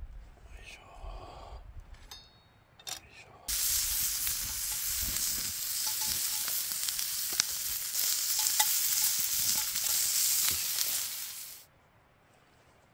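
Food sizzling in a hot frying pan, starting suddenly about three and a half seconds in, with scattered small pops, and cutting off near the end. A few light clicks and knocks of cookware come before it.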